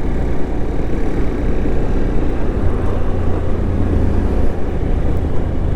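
Motorcycle ride heard on the rider's microphone: steady engine and wind-and-road noise, with a low engine hum that settles in about halfway through.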